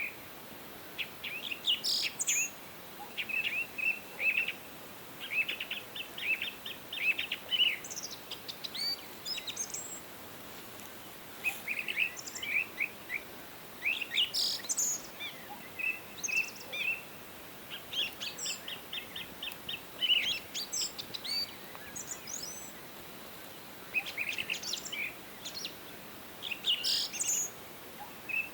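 Small songbirds chirping and twittering in quick repeated phrases, in bouts a second or two long with short pauses, over a faint steady hiss.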